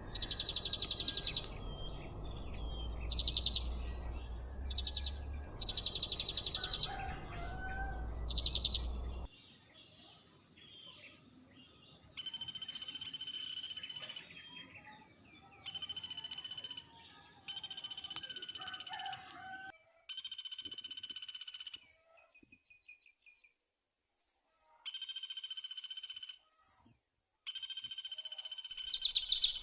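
Small birds chirping in short repeated bursts over a low rumble of wind on the microphone for the first third. After that, a steady high thin tone with scattered chirps starts and stops abruptly several times.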